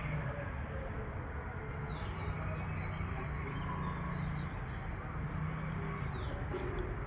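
Steady outdoor background noise with a low hum, and a few short, high bird chirps.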